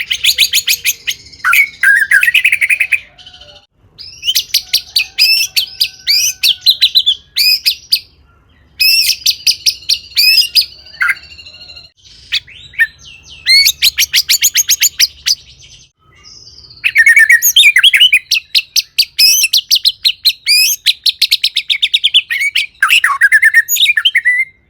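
White-rumped shama (murai batu) singing in five phrases, each a run of rapid rattling notes mixed with whistled glides, with pauses of about a second between phrases; the last phrase is the longest.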